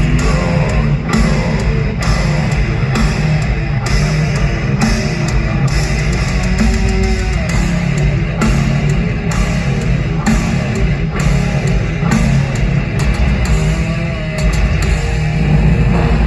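Heavy metal band playing live: distorted electric guitars, bass and drum kit, loud and continuous, with a wavering lead guitar line over the rhythm.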